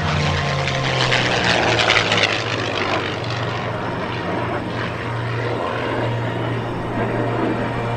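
Aircraft engine noise from an airplane flying past, loudest in the first couple of seconds and then settling into a steadier roar.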